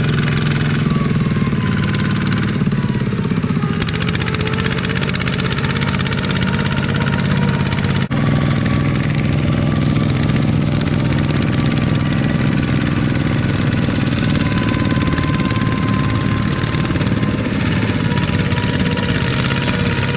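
Kubota mini tractor's diesel engine running steadily, with a very brief break about eight seconds in.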